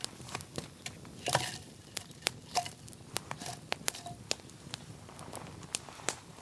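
Wood campfire crackling, with irregular sharp pops and snaps and a louder cluster of snaps about a second in. A few faint short whistles sound in between.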